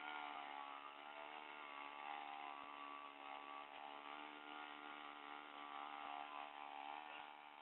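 Small engine of a home-built wind-scooter boat running steadily, its drone holding an even pitch.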